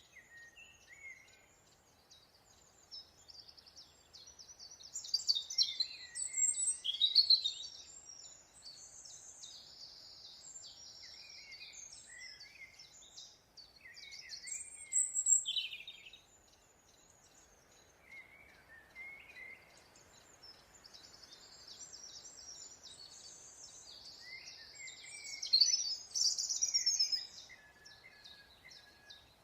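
Several birds singing and chirping, with bursts of rapid high chirps and warbled phrases, loudest around 5 to 7 seconds in, at about 15 seconds and near the end, over a faint steady background hiss.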